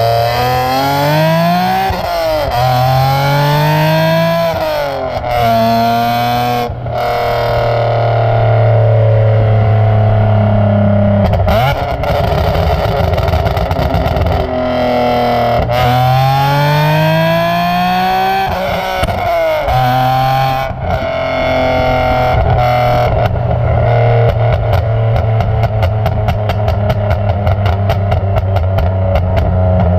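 BMW E46 M3's S54 straight-six exhaust, through aftermarket headers and an Agency Power muffler, accelerating through several gears: the pitch climbs and drops sharply at each upshift, then holds steadier. In the last several seconds a rapid crackle rides over the exhaust, typical of a burble tune.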